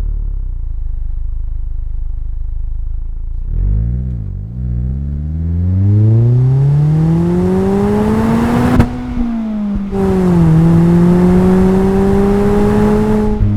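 Mazda MX-5's four-cylinder engine and exhaust running at low revs, then a couple of quick rev wobbles. The car pulls hard with the engine note rising steadily, drops suddenly at an upshift about nine seconds in, and climbs again in the next gear.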